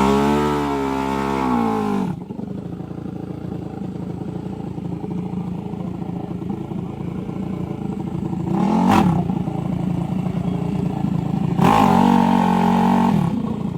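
Dirt bike engines: one revs down over the first two seconds, then a rough steady running underneath, a bike rising and falling in pitch as it revs about nine seconds in, and another held rev near the end.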